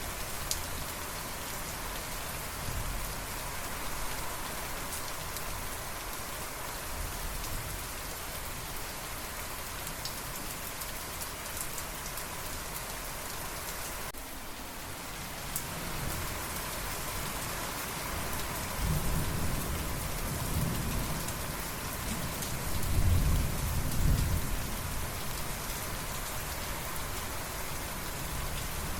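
Steady rain falling, with thunder rumbling low and rolling for several seconds about two-thirds of the way through.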